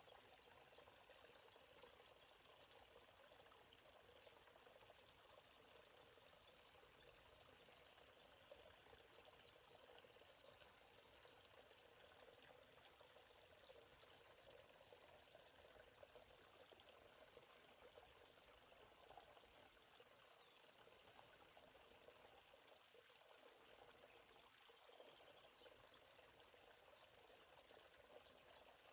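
A steady, high-pitched insect chorus that does not let up, over the faint, even rush of a flowing stream.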